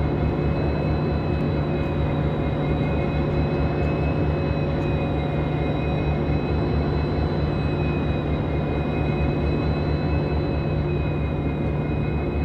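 Locomotive machinery running at a steady level: a constant low drone with thin high whines held over it.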